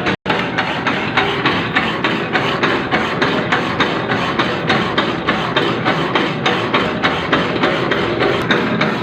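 Machine tool cutting a keyway in metal: a steady, loud mechanical clatter with regular knocks about four to five a second. The sound drops out for an instant just after the start.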